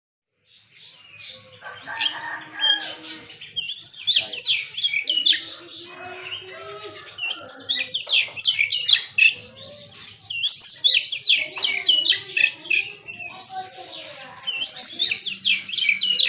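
Oriental magpie-robin (kacer) singing in four loud spells of rapid, varied high notes, each a few seconds long, running through its repertoire of songs mimicked from other birds. Fainter calls of other birds come in between.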